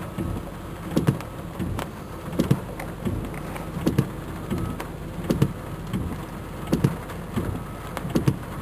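Rain heard from inside a car, with windshield wipers thumping about twice a second.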